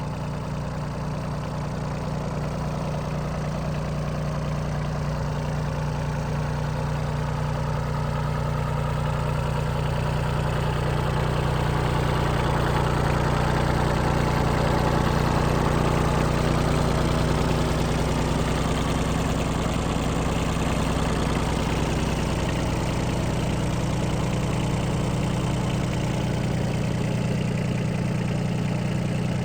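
Yanmar AF16 compact tractor's 16 hp diesel engine running steadily. It grows louder toward the middle and then eases off a little.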